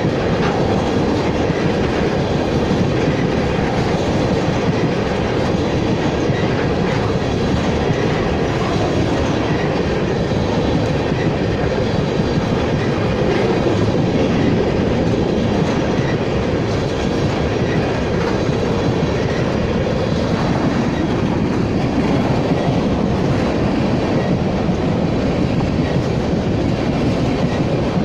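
Empty oil tank cars of a freight train rolling past close by, a steady loud run of wheel and rail noise with the clack of wheels over the track.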